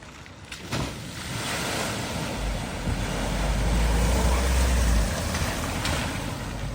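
A vehicle ploughing through a flooded ford: a rush of splashing, surging water builds about a second in, is loudest with a deep rumble around the middle, then eases off.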